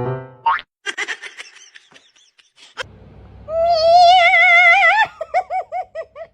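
A pet animal's long wavering cry, followed by several short rising-and-falling cries.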